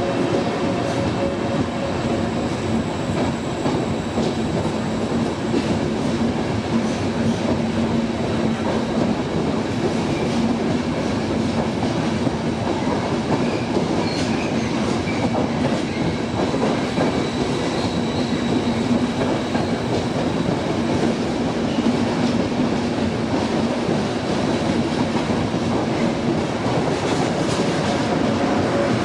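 Passenger train moving along the platform: a steady rumble with the clatter of wheels over the rails.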